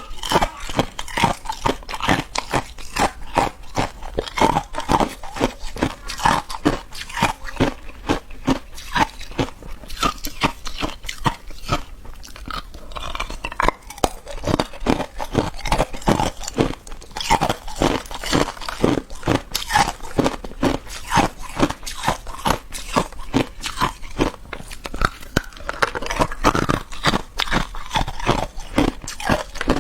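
Close-up crunching of ice being bitten and chewed: a rapid, continuous run of sharp cracks and crunches from teeth breaking up ice.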